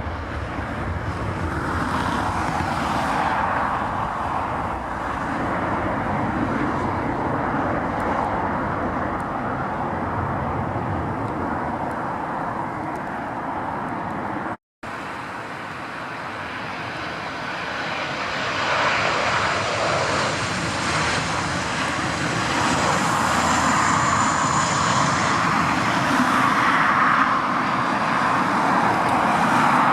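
Jet engine noise from an Airbus A330-200 after take-off, cut off suddenly about halfway through. It is followed by the CFM56 engines of a Boeing 737-800 on landing approach, which grow steadily louder toward the end.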